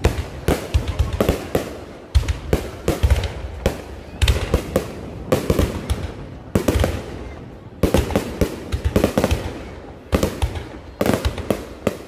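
Low-altitude fireworks going off in rapid volleys of sharp bangs and crackles. Clusters of several bangs come every second or two, with short lulls between volleys.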